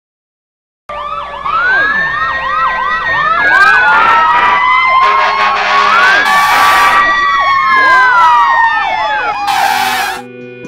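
Several fire engine sirens sounding together: a fast yelping siren over slower rising-and-falling wails. They start about a second in and cut off just before the end, with two short bursts of hiss along the way.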